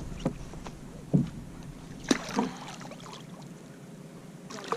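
Short knocks and splashes at a fishing kayak, with light water noise between them, as a hooked redfish is fought close alongside. About five separate hits, the loudest about a second in and about two seconds in.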